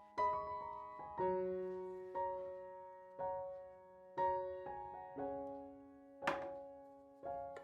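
Soft background piano music, notes struck about once a second and left to fade. A single sharp knock sounds about six seconds in.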